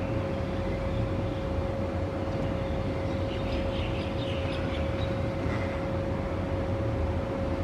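Steady low mechanical rumble with a constant hum, like machinery or traffic running. A few faint high bird calls come in the middle.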